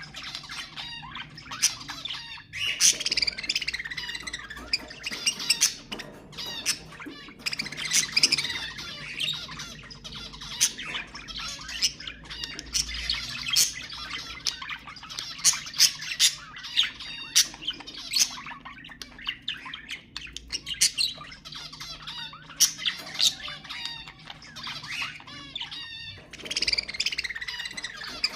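Budgerigars chattering and warbling without a break, with many sharp squawks and chirps.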